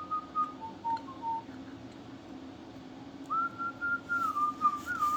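A person whistling a tune: a few short notes, then after a pause of about two seconds a longer phrase that glides and wavers in pitch. A steady low hum runs underneath.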